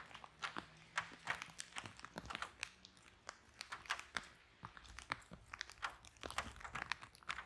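Wood fire burning in a fireplace, crackling with irregular sharp pops and snaps over a faint low rumble of the flames.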